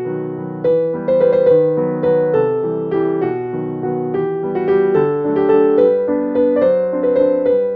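Background piano music: a gentle melody of struck notes with a steady pulse.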